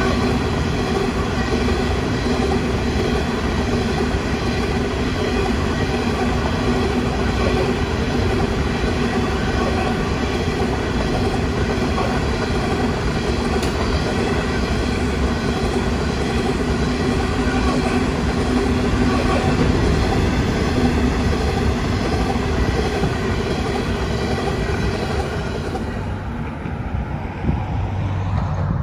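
Coal hopper wagons of a long freight train rolling past on curved track, a steady loud rumble of wheels on rail. The sound begins to fade near the end as the last wagons go by.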